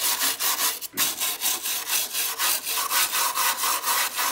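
Rapid back-and-forth scraping strokes of a hand tool working metal, about five strokes a second, with a brief pause about a second in.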